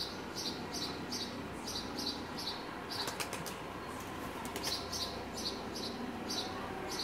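A small bird chirping over and over, about three short high chirps a second, pausing briefly a little past halfway, with a few faint clicks around the middle.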